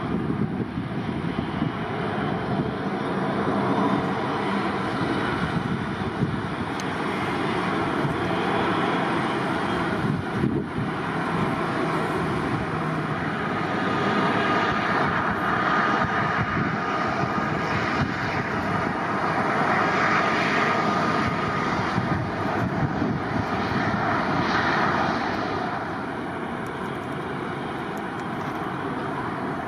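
Airliner jet engines running as the aircraft passes: a steady rush with a thin whine through the middle, which eases off a few seconds before the end.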